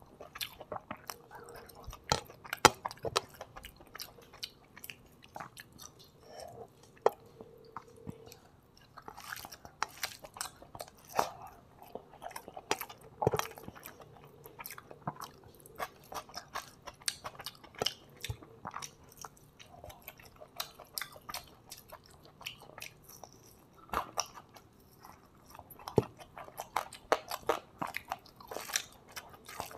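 Close-miked chewing and crunching of a mouthful of rice and fried chicken eaten by hand, with many irregular sharp crunches and wet mouth clicks.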